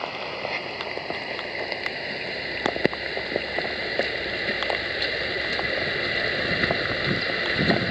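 Heavy rain falling steadily, with scattered close drops ticking on a nearby surface.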